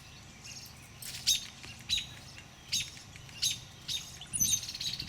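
A bird giving short, sharp calls repeated about once every three-quarters of a second, five or six times. It is a bird calling while a black snake raids its nest and eats the chicks.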